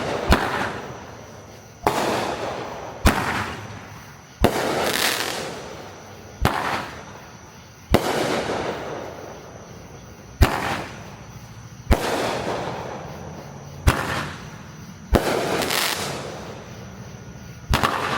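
Consumer fireworks shooting off one after another, about eleven sharp bangs every second and a half to two seconds. Each bang is followed by a crackling, hissing tail that fades away.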